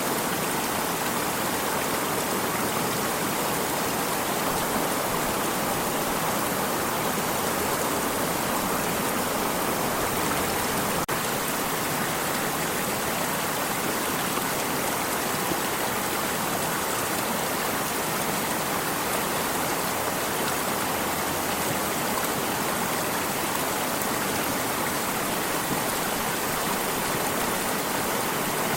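Water stream running steadily, a continuous even rush with no change.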